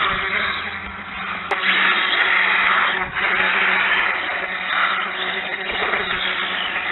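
X-Rider BX4003 radio-controlled dirt bike running, its motor and tyres making a continuous hissing whir that swells and eases several times as the throttle changes, over a steady low hum.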